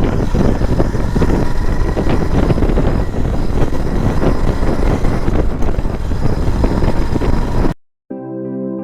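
Vehicle on the move, with wind buffeting the microphone in a loud, steady rumble. It cuts off abruptly near the end and electric keyboard music begins.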